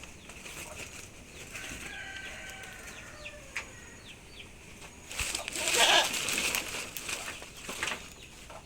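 Farmyard chickens: faint clucks and chirps, then a loud burst of wing flapping about five seconds in, lasting over a second.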